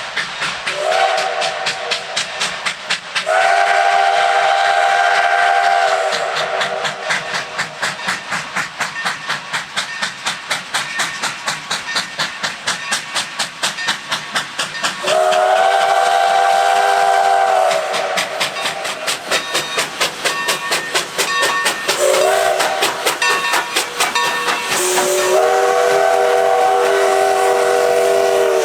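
Steam locomotive No. 30, a 2-6-0, working hard at speed with rapid, even exhaust chuffs. Its five-chime steam whistle blows a short toot, then long, long, short, long, the grade-crossing signal.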